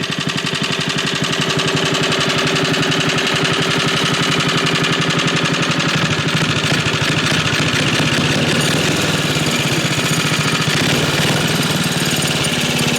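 Tecumseh H35 single-cylinder four-stroke engine idling steadily with an even, rapid putter, freshly tuned at the carburettor so it idles pretty nicely.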